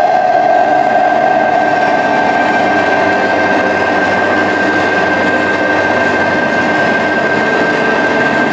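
A steady, loud, engine-like mechanical drone with a constant high whine running through it; a lower hum within it fades away about three seconds in.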